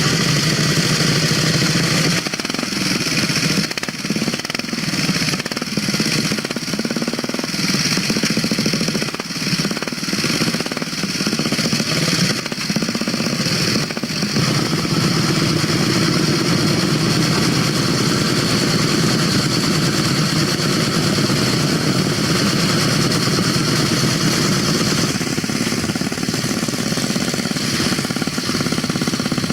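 Vintage motorcycle engines running, with a rapid, hammering exhaust note. The engine note shifts about two seconds in and again about halfway through.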